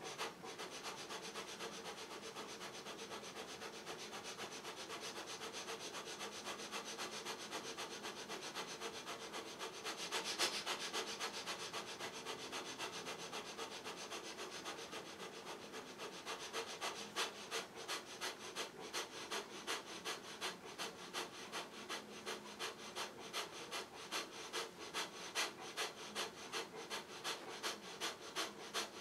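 Kapalbhati breathing: short, forceful exhalations pumped out through the nose in a quick, even rhythm. Faint, with the strokes growing more distinct about halfway through.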